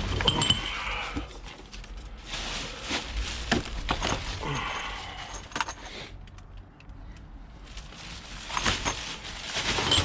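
Rummaging through bags of salvaged goods: plastic bags and packaging crinkle and rustle, with irregular clicks and clinks of items being handled. It goes quieter for a couple of seconds past the middle.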